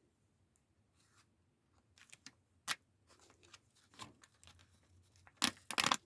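Paper sticker sheet being handled and stickers peeled off: scattered short crackles and taps, quiet at first, with a louder cluster near the end.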